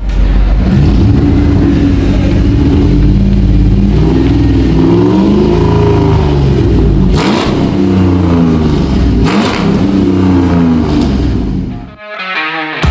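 V8 muscle-car engine revving, its pitch climbing and falling several times with abrupt breaks between pulls; the engine sound drops away shortly before the end.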